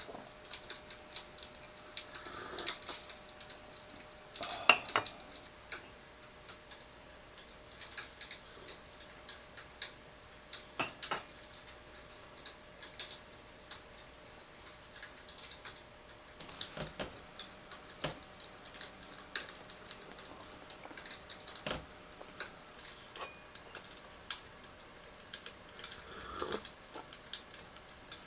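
Scattered light clinks, taps and knocks of tableware being handled, the loudest a ringing clink about five seconds in.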